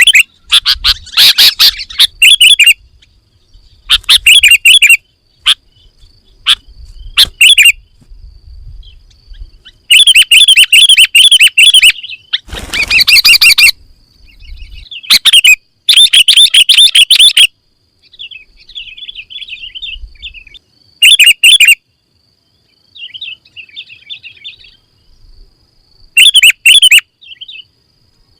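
Sooty-headed bulbul (kutilang) singing in loud bursts of quick chirping notes, separated by pauses and quieter short phrases. About halfway through comes one harsher, rougher burst.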